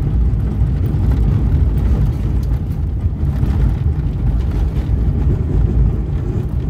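Steady low rumble of a car driving down a rough dirt mountain track, engine and tyre noise heard from inside the cabin.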